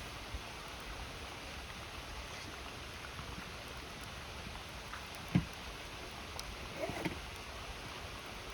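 River water flowing steadily beside a crackling wood campfire, with a few faint crackles and a single dull thump about five seconds in.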